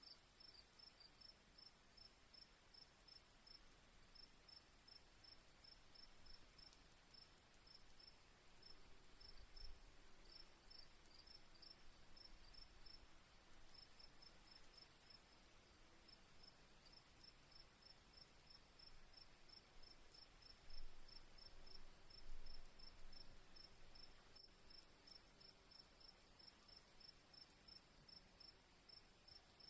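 Faint crickets chirping: a quick run of short, evenly repeated chirps over a continuous high-pitched insect trill. A few soft low rumbles rise and fade about ten and twenty seconds in.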